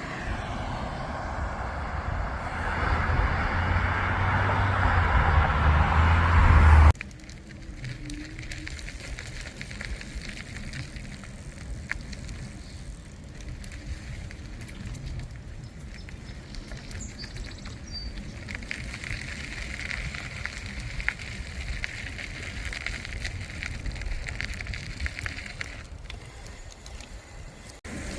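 Noise of a bicycle ride: wind on the microphone and rolling road noise, loud and growing for about seven seconds, then cutting abruptly to quieter, steady riding noise.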